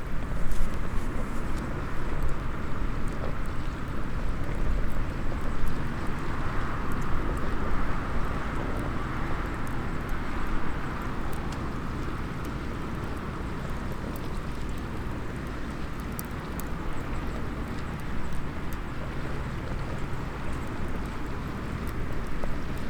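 Small wood fire in a SOTO mini fire pit crackling, with scattered sharp pops, over a steady rushing background.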